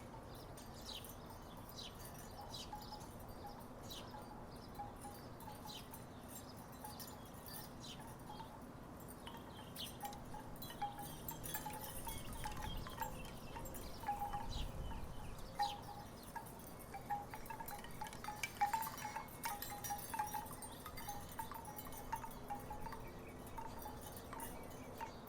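Wooden tiki wind chimes knocking together in the breeze: irregular hollow clacks with a short woody tone, coming thicker and louder in the middle stretch as the wind picks up.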